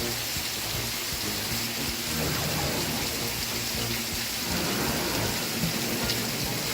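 Steady rain falling, with faint music from a TV show playing quietly underneath.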